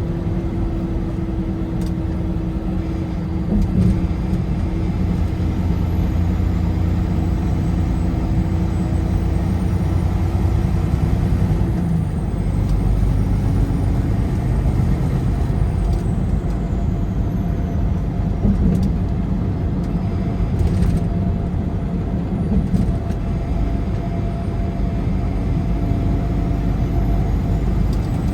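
Car driving at highway speed: steady engine and tyre road noise, with a low hum running through it.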